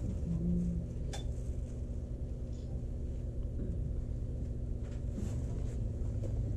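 Norokko sightseeing train running along the line: a steady low rumble, with a few sharp clicks about a second in and again near five seconds.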